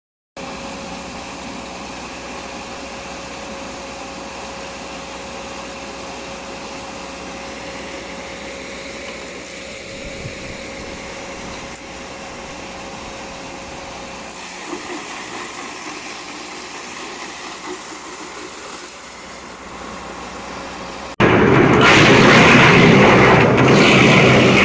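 Electric disc wood chipper running steadily with a humming tone. About three seconds before the end it abruptly becomes much louder and harsher as bamboo is fed in and chipped.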